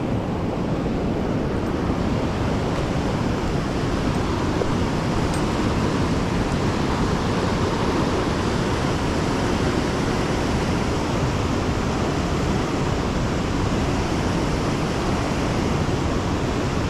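Waterfall: the steady rush of falling water, heard close by, with no breaks or changes.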